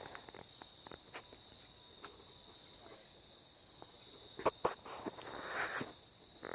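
Insects trilling steadily on one high pitch, with a couple of sharp clicks about two-thirds of the way in and a brief rustle near the end.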